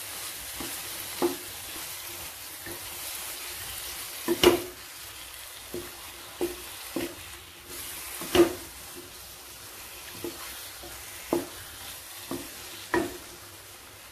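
Chicken in thick masala sizzling in a nonstick kadai while a spatula stirs it, knocking and scraping against the pan at irregular intervals, about once a second. The loudest knocks come about four and eight seconds in. The spices are being fried in oil.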